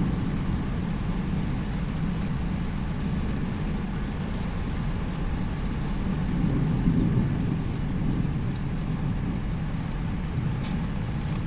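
Steady rain with a low, even rumble underneath and a few faint drop ticks.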